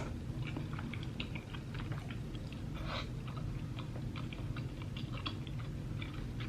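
A person chewing a mouthful of tteokbokki (chewy rice cakes in sauce with melted cheese), with many small wet clicks and smacks close to the microphone over a steady low hum.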